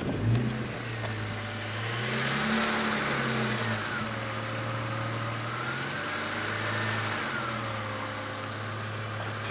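BMW E53 X5 engine and exhaust running near idle, the revs rising and falling gently a few times with small throttle changes. The exhaust has a droning note.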